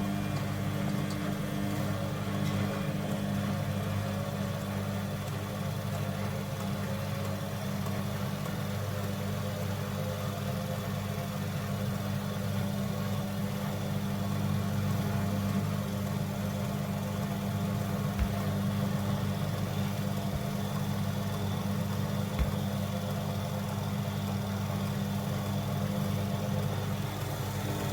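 Front-loading washing machine running mid-cycle with its back and top covers off: a steady low hum from its motor and pump as the drum turns. Two brief faint knocks come in the second half.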